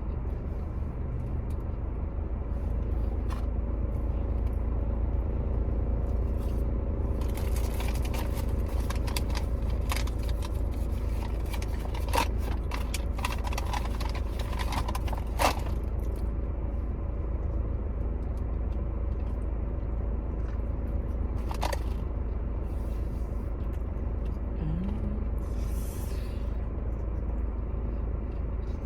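Paper food wrappers and packaging rustling and crinkling, densest in the middle stretch with a few sharp clicks, over a steady low rumble.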